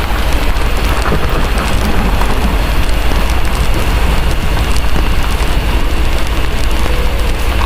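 Heavy rain falling steadily, layered with a deep low rumble and scattered small crackles of a wood fire, mixed as a continuous ambience bed.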